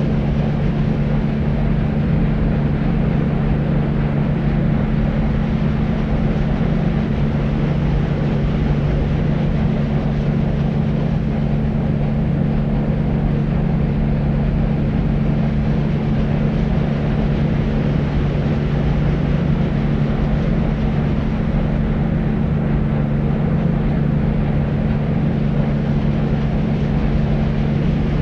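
Deep white noise for sleep: a steady, low rumbling hiss with a constant low hum under it, unchanging throughout.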